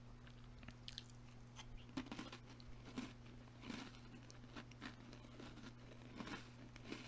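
A person chewing crunchy food close to the microphone: irregular crunches, a few louder bites among softer ones, over a steady low hum.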